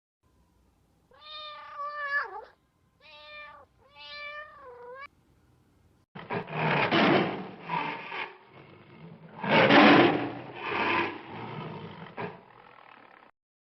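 Domestic cat meowing three times, each meow bending in pitch. Then several seconds of loud, rough, noisy animal calls with no clear pitch.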